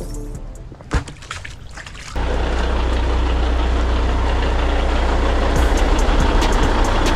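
A loud, steady rush of spraying water over a deep rumble, starting abruptly about two seconds in. Before it comes a quieter stretch with a single sharp click about a second in.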